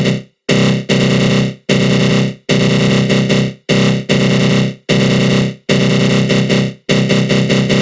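Synthesized attack-growl sound effect: a harsh, flanged synth buzz. It comes in bursts about a second long, each ending in a short silent gap, and near the end it breaks into quicker pulses.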